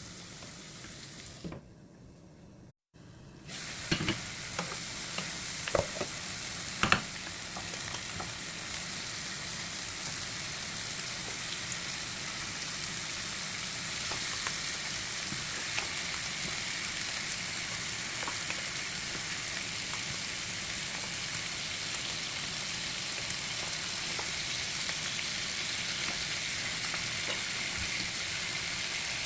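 Food sizzling steadily as it fries in a pan, with a few sharp knocks against the pan about four to seven seconds in. The sound drops out briefly about two seconds in.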